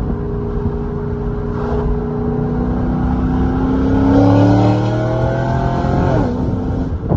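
2006 Corvette C6's LS2 V8 through catless headers and a cat-back exhaust, accelerating under a light roll-on. The pitch climbs slowly at first, then the engine gets louder and rises faster about four seconds in, and it falls away sharply near the end.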